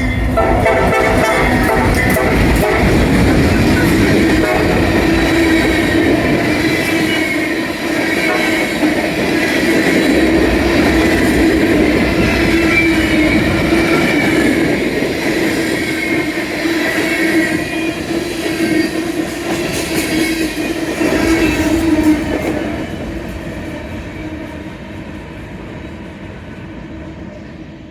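A CSX train passing through the station at close range: the horn ends just after the start, then the locomotive and cars rumble and clatter over the rails, with a high wavering ring above the rumble. The sound fades away over the last several seconds as the train moves off.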